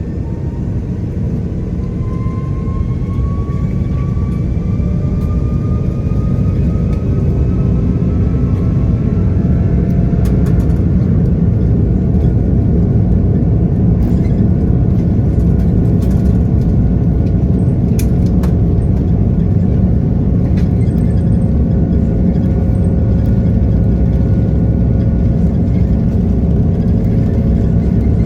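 Airbus A330-300 jet engines, Rolls-Royce Trent 700 turbofans, spooling up to take-off thrust, heard inside the cabin. The rumble grows louder over the first several seconds with a whine rising in pitch, then holds steady and loud.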